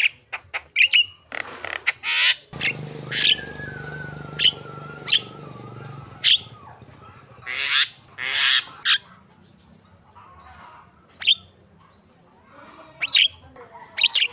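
Javan myna singing: a run of sharp, downward-sweeping chirps mixed with harsh squawks, and a long thin whistle that slowly falls in pitch for about four seconds.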